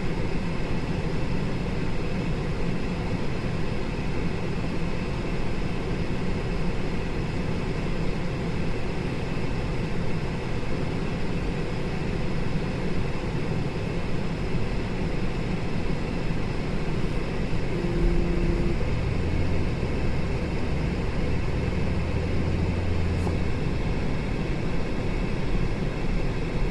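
2008 Cadillac SRX's 3.6-litre V6 running steadily, with engine speed raised and held for several seconds about two-thirds of the way through.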